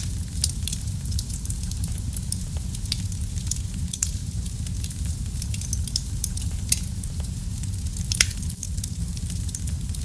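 Wood fire burning in a fireplace: a steady low rumble of the flames with frequent sharp crackles and pops, one louder snap a little after eight seconds in.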